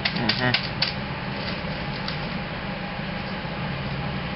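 Steady low hum and hiss inside a moving passenger train car, with a few short clicks in the first second.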